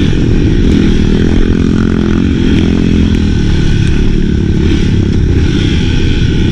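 Enduro dirt bike engine running steadily while the bike is ridden, its pitch drifting up and down slightly with the throttle.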